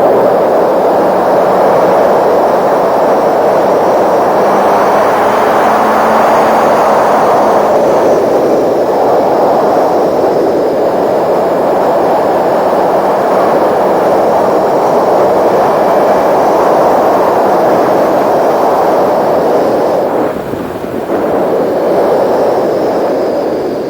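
Steady wind rush on the microphone while riding a sport bike at speed, easing briefly about twenty seconds in.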